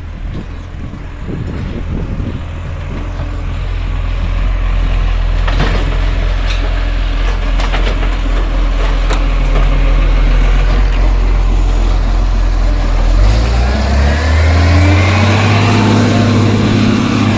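Garbage truck's diesel engine running and growing louder over the first few seconds, with a few knocks around the middle. Near the end the engine note steps up and a rising whine comes in, then it drops away.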